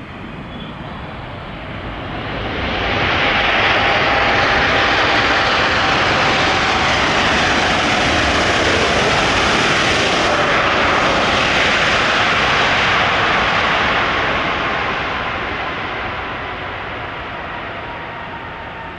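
Jet airliner engines passing close by: the noise swells over a couple of seconds, stays loud for about ten seconds, then fades away, with a thin whine that slides slowly lower in pitch.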